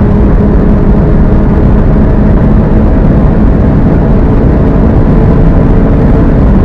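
A Volkswagen Golf GTI's turbocharged 2.0-litre four-cylinder engine under full throttle at over 210 km/h, heard from inside the car. The engine note holds nearly steady as the car gains speed slowly in a high gear, with no gear change.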